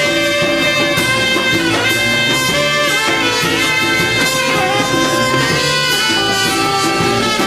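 Live jazz quintet playing loudly, with held horn lines over bass and drums.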